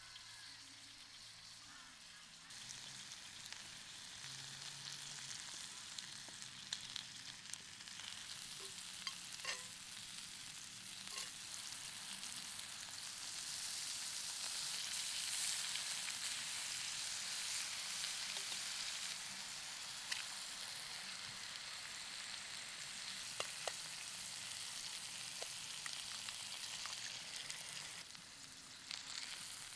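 Food frying and sizzling in a pan, a steady hiss with scattered small pops.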